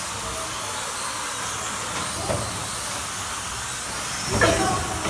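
Slot cars running on the track: a steady high hiss from their small electric motors and pickups, with faint whines rising and falling as the cars speed up and brake. A brief louder sound cuts in a little over four seconds in.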